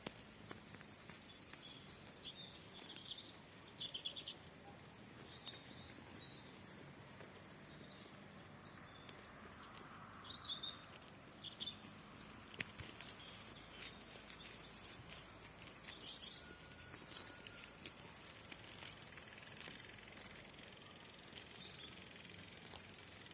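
Small songbirds chirping and trilling in short, scattered high calls over a faint, even outdoor hiss.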